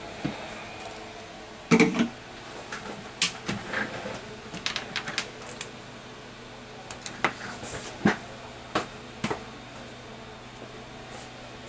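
Small hand tools clicking and tapping on a repair bench, with one louder knock early and a scatter of sharp clicks for several seconds, over a steady hum of workshop equipment.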